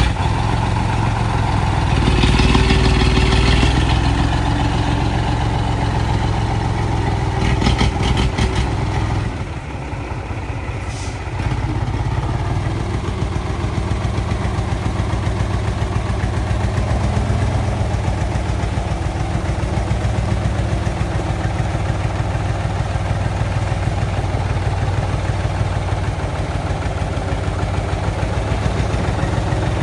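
Heavy truck engine running steadily with a low hum. It grows louder for a couple of seconds near the start, a few sharp rattles come around a third of the way through, and it eases off briefly before settling back to a steady run.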